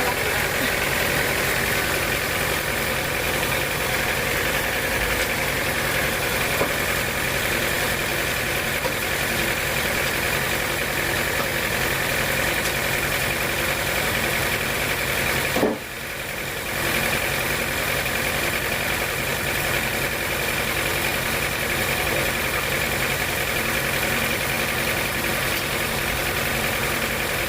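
Sawmill machinery running steadily, a constant low hum with a held high whine. About halfway through it briefly drops out, then carries on as before.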